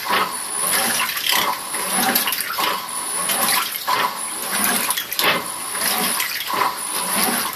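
Simpson Ezi Sensor washing machine washing a load of shirts: water sloshing and churning in repeated surges, about one a second.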